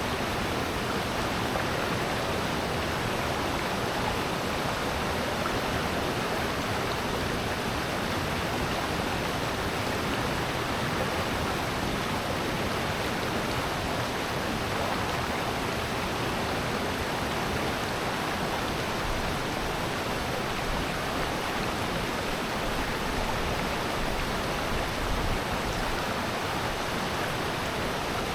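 Valley stream water rushing over rocks: a steady, even wash that does not change.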